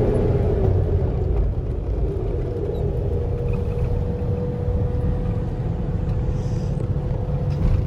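Car driving, heard from inside the cabin: a steady low rumble of engine and road noise. A thin steady whine joins about three seconds in.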